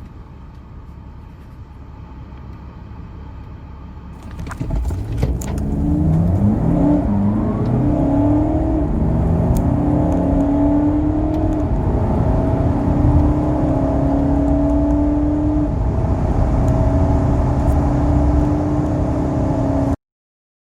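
Car engine idling, then accelerating hard from a standstill, its pitch rising steadily in each gear and dropping at each upshift. It cuts off suddenly near the end.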